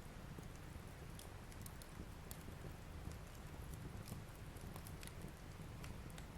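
Fire burning in a fireplace: a faint, steady low rush with scattered sharp crackles and pops.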